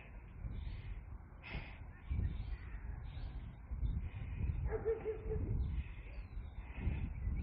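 Outdoor background with a low, uneven rumble, and one short bird call about five seconds in.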